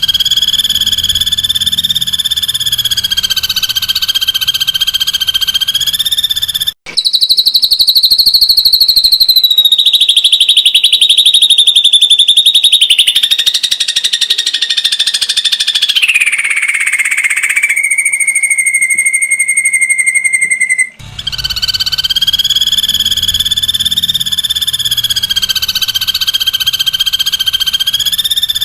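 Ashy drongo giving long runs of fast, close-packed trilled 'tembakan' calls, high-pitched and clear. The runs break off briefly about a quarter of the way in and again about three-quarters in. Shortly before the second break, one run settles into a steady, lower whistle.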